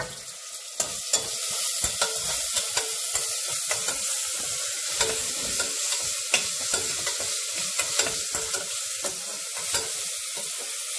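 Food sizzling as it is sautéed in hot oil, stirred with a spatula: a steady hiss with frequent light scrapes and taps against the pan.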